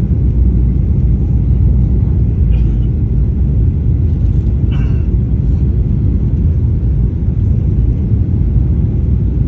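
Steady low rumble of an airliner's engines and airflow heard from inside the passenger cabin during landing, with a couple of faint clicks or rattles about two and a half and five seconds in.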